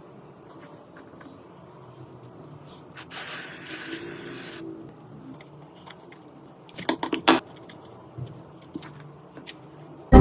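A single hiss of spray lasting about a second and a half, followed a couple of seconds later by a quick run of short clicks or taps.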